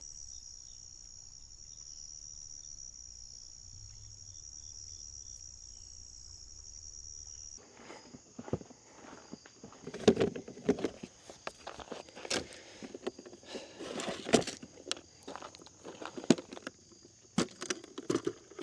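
A steady, high-pitched insect chorus of crickets or cicadas for the first seven or so seconds. It then cuts off suddenly to a fainter insect hum under irregular footsteps and knocks, like someone moving about and handling gear.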